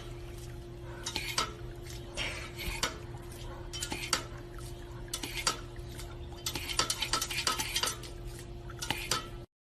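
Irregular light clicks, taps and clatter, like handled dishes or utensils, over a steady low hum; it cuts out abruptly near the end.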